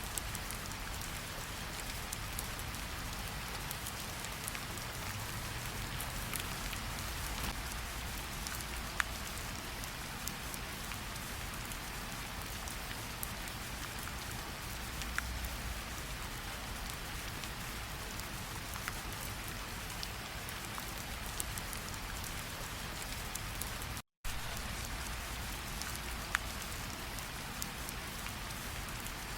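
Steady rain falling, with scattered single drops ticking louder now and then. It cuts out completely for a split second about 24 seconds in.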